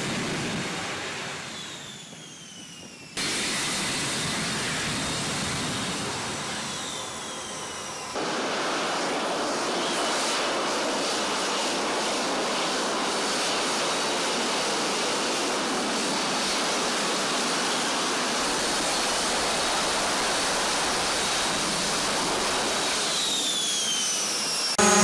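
Fighter jet engines running loud, a dense, steady rushing noise with high whines that fall in pitch now and then. The sound changes abruptly about three seconds in and again about eight seconds in, where one shot gives way to the next.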